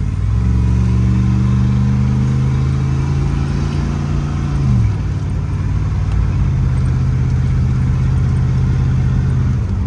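GMC K2500 pickup engine pulling under acceleration, its note climbing slowly, then dropping sharply about halfway through as the automatic transmission shifts up, and running steady after that.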